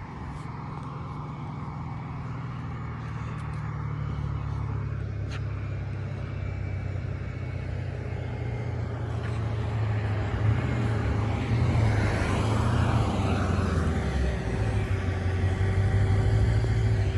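A 2016 Dodge Charger Hellcat's supercharged Hemi V8, breathing through American Racing headers and a full exhaust system, running at low revs with a steady deep exhaust rumble that grows gradually louder.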